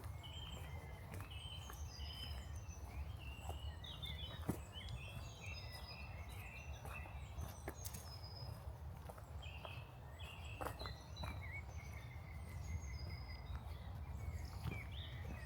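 Small birds chirping and singing throughout, with a few scattered footsteps on a path and a steady low rumble underneath.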